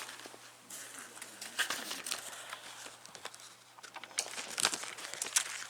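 Sticky lint-roller sheet and fabric crinkling and crackling, in two scratchy stretches about a second and four seconds in.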